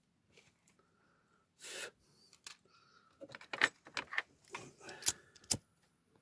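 Small clicks and light clattering of tools and parts being handled on a workbench, a cluster of sharp ticks in the second half. A short hiss comes about a second and a half in.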